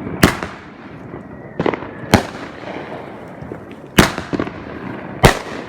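Consumer fireworks going off: five sharp bangs at uneven intervals of roughly half a second to two seconds, with a few lighter crackles after the bang about four seconds in.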